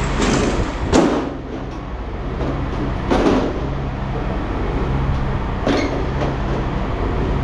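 Three sharp metal clanks about two seconds apart, from scrap metal being struck or worked loose, over the steady hum of an idling engine.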